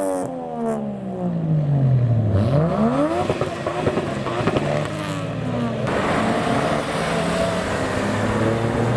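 Modified car engines driving out one after another: the first engine note falls away over the first couple of seconds, a second car revs up briefly, and another accelerates away near the end.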